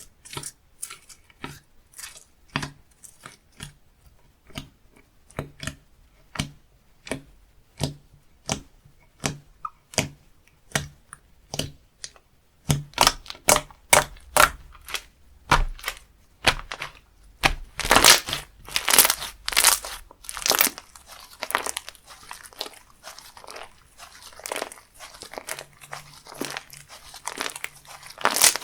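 Slime being pressed and worked by hand, giving sharp crackles and pops. For about the first twelve seconds they come singly, one or two a second; after that the crackling turns denser and louder.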